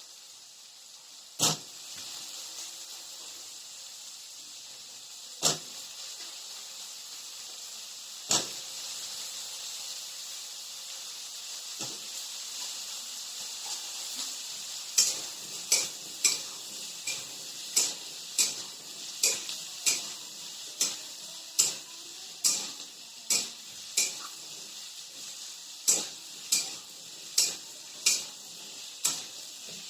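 Cut potatoes sizzling as they fry in hot oil in a pan, with a cooking utensil knocking against the pan: a few separate knocks at first, then frequent regular knocks of stirring from about halfway through.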